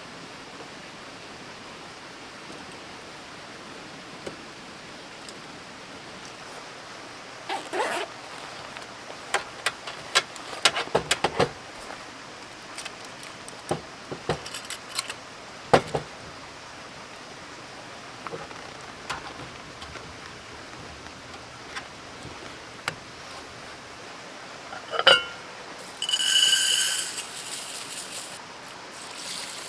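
Scattered light clinks and knocks, mostly in a cluster a third of the way in, over a steady hiss. Near the end comes a sharper knock, then a short high pitched squeal.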